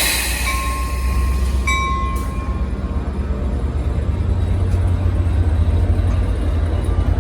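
Train passing with a steady low rumble. A high, on-and-off steel wheel squeal dies away about two seconds in.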